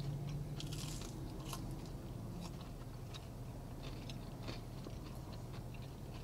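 Close-up mouth sounds of people biting and chewing breaded chicken nuggets: soft crunches and small wet clicks scattered throughout, with a low closed-mouth 'mmm' hum through the first second.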